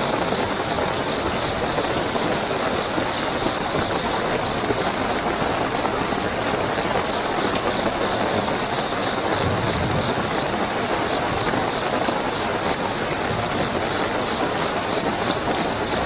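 Steady heavy rainfall with crickets trilling in an unbroken high-pitched drone. A low rumble swells briefly about ten seconds in.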